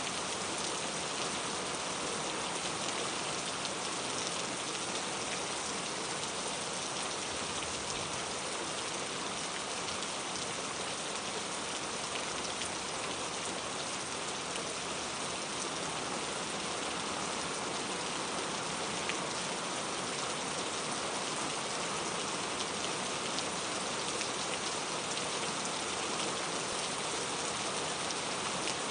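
Steady rain falling on a surface: an even hiss with scattered faint drop ticks, no thunder.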